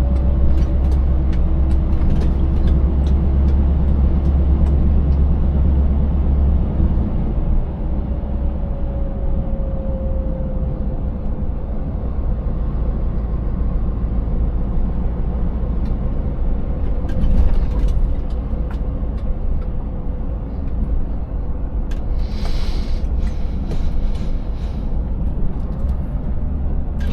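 Scania 590S 16-litre V8 truck driving with a steady low engine drone and road rumble. Scattered rattles and knocks come from the truck running empty over a broken road surface, and a short hiss comes near the end.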